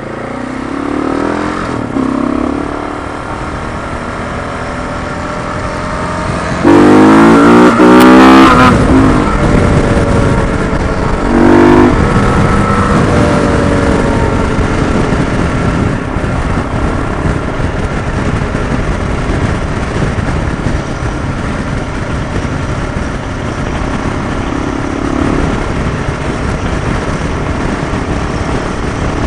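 Motorcycle engine pulling away and accelerating, with its pitch rising loudest a few seconds in and again briefly near twelve seconds. After that it settles into a steady cruise under a constant rush of wind.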